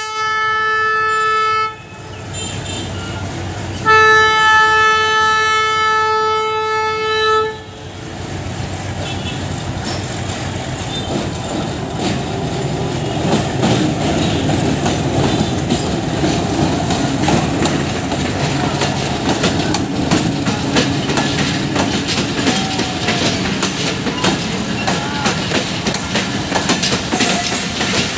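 Horn of the MLW diesel locomotive: one short blast, then a longer blast of about three and a half seconds. The train then pulls away and passes, its diesel engine running under a building rumble and its wheels clicking over the rail joints and points.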